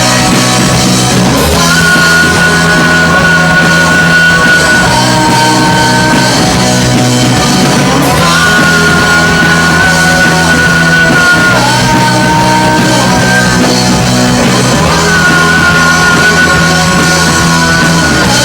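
Live rock band playing loudly, with long held high notes in a melody that repeats about every six or seven seconds over a steady bass and drums.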